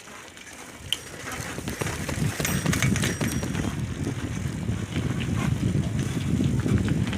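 Wind buffeting the microphone while a bicycle is ridden, a low rough rumble that builds from about a second in, with a sharp click near the start and light scattered ticks and rattles from the bike.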